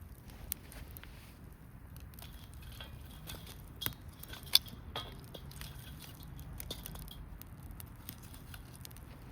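Wood campfire crackling: irregular sharp pops and ticks over a low steady background, the loudest pop about four and a half seconds in.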